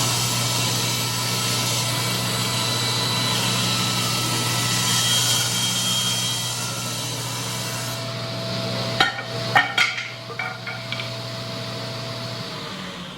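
General cabinet table saw, with its internal 2-horsepower belt-driven motor, running and ripping a board for about eight seconds. A few sharp knocks follow about nine to ten seconds in. Near the end the motor is switched off and the blade winds down with a falling whine.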